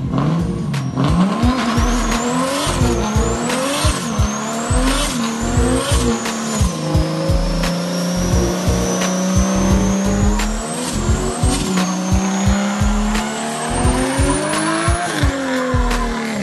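A car engine revving hard: five quick climbs, each cut off sharply, then one long steady climb that drops away near the end, with a high whine rising and falling with the revs. A music beat plays underneath.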